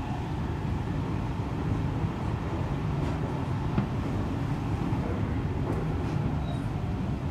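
Seibu 40000 series commuter train running at speed, heard from inside the car: a steady rumble of wheels on rail, with one faint click about halfway through.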